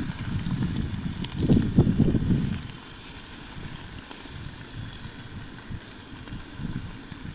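Strong wind gusting and buffeting the microphone, with a heavy gust in the first couple of seconds that eases into a steadier, lower rumble.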